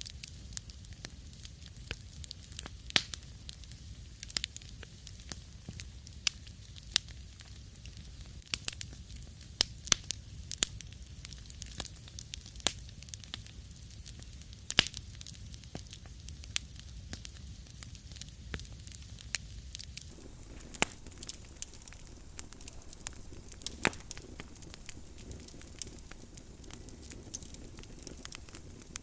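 Wood fire crackling in a fireplace: irregular sharp pops and snaps over a low rumble and a soft hiss of burning logs.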